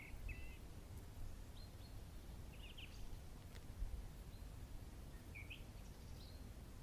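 Small birds giving short, high chirps every second or two, over a faint low rumble.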